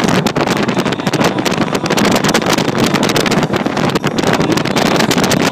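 Loud wind buffeting the microphone during a ride, a continuous rushing noise that flutters rapidly.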